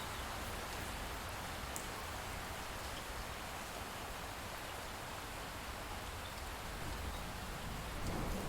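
Light rain falling steadily, an even hiss with a few scattered drop ticks. A faint low rumble of distant thunder builds near the end.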